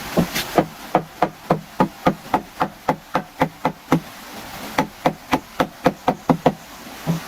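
Rapid, evenly paced knocking of a tool striking wood, about three to four blows a second, with a short break about four seconds in.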